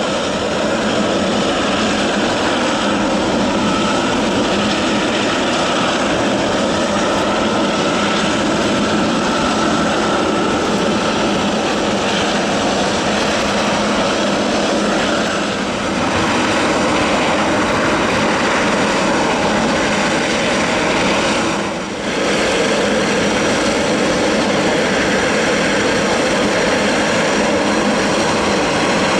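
Turbofan engines of a twin-engine widebody jet airliner at takeoff thrust: a loud, steady rush of jet noise, with a brief dip in level about 22 seconds in.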